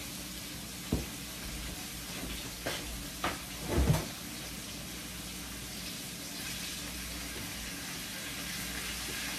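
Steady sizzling of chicken frying in oil, with a few short knocks between about one and four seconds in.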